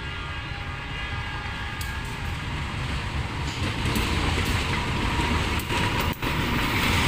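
A diesel-electric locomotive hauling a passenger train approaches and draws alongside. Its engine rumble and wheel noise grow steadily louder.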